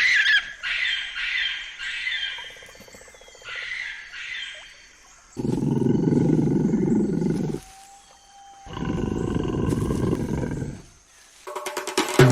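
Birds calling for the first couple of seconds, then a tiger giving two long, low roars of about two seconds each with a short gap between them. Music starts just before the end.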